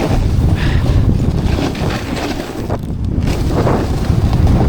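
Strong wind buffeting the microphone, a loud low rumble that eases slightly around two to three seconds in.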